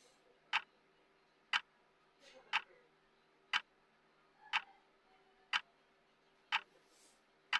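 Clock-style tick of a countdown timer, one sharp tick every second, eight in all, over a faint steady hum.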